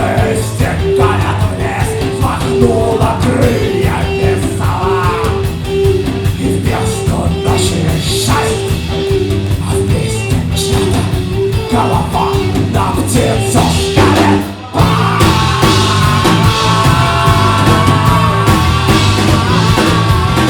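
Live rock band playing loudly, drums driving a steady beat under a repeating high riff. About three-quarters of the way through, the music cuts out for a moment, then comes back with long held notes over the drums.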